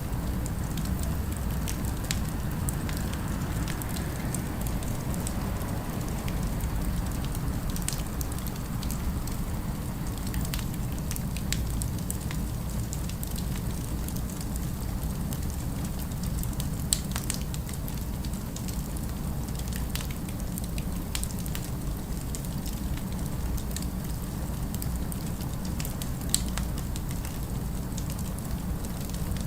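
Fireplace fire crackling, with scattered small pops over a steady low rumble. Two louder pops come past the middle and near the end.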